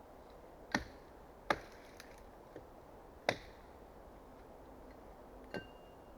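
Axe chopping wood: four sharp, unevenly spaced blows, the second and third the loudest, with a couple of lighter taps between them. The last blow leaves a short ringing tone.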